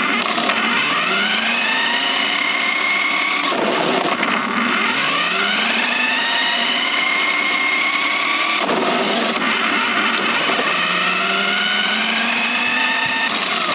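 Small electric motor of an RC car whining as it spins up, the pitch rising and then levelling off, three times over.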